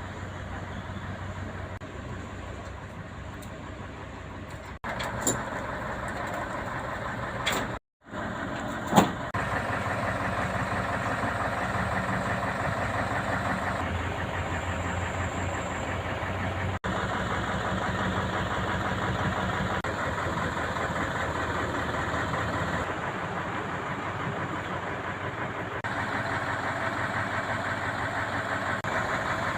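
Heavy diesel engine running steadily at idle, with a brief break about 8 seconds in and a sharp click just after.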